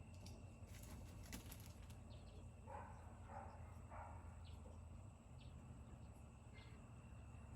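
Quiet outdoor farm ambience with faint bird calls: three short, soft calls close together about three seconds in, and a few small high chirps later, over a steady low hum.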